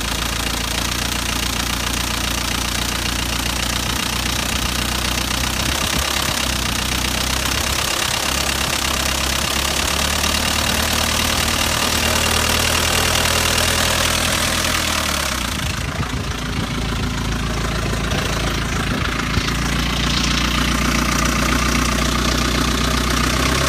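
BMW engine running steadily at idle. About two-thirds of the way through, the sound gets duller and its low notes shift as the microphone moves down from the top of the engine toward the underside.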